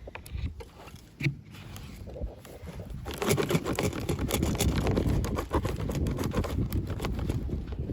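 Packaging being handled: a few separate clicks in the first second or so, then from about three seconds in continuous rustling and crinkling with many small clicks.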